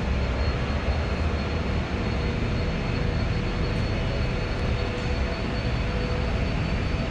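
Steady, continuous rumble and hiss of background machinery noise, with a faint steady hum; no single event stands out.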